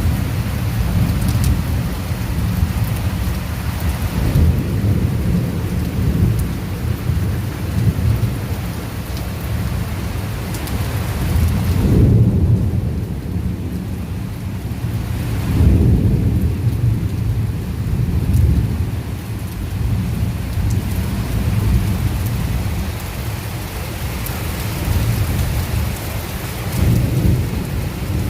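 Heavy rain pouring, with thunder rumbling low under it, swelling loudest about twelve seconds in and again about four seconds later.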